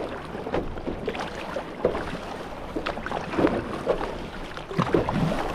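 Paddles dipping and splashing in the water with repeated short strokes, over wind rumble on the microphone.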